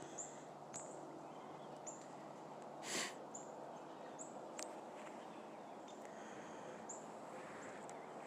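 Small birds calling faintly: short, high chirps every second or so. About three seconds in, a brief breathy rush of noise, the loudest moment.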